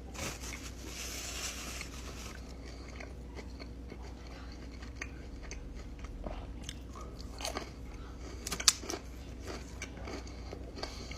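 A person biting and chewing a guava-filled pastry close to the microphone: a crunchy bite in the first two seconds, then chewing with scattered small mouth clicks and one sharp click later on.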